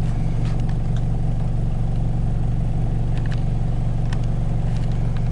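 An antique fire engine's engine idling steadily, with a few faint clicks over it.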